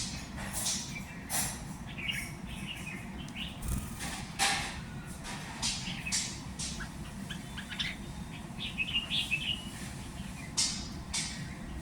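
Small birds chirping in short, quick clusters of high notes, twice. Brief bursts of noise come between the chirps, the loudest about four seconds in, over a steady low rumble.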